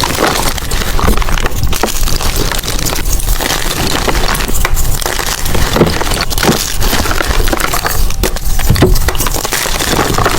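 Blocks of gym chalk being crushed and crumbled: a dense, continuous run of crunching and crackling with many small snaps.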